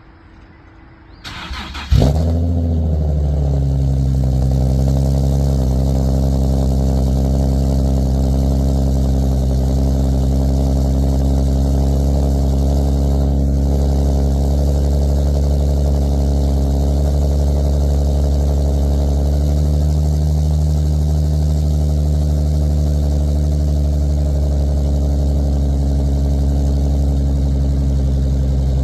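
Nissan 370Z's 3.7-litre V6 with long-tube headers and a full exhaust, cold-started: a short crank, then the engine catches about two seconds in with a brief flare in revs and settles into a steady, loud idle.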